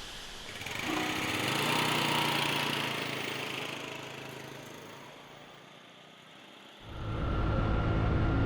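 Motorbike engine running: one engine swells and then fades away over about four seconds. After a short lull, about seven seconds in, another steady engine sound starts abruptly.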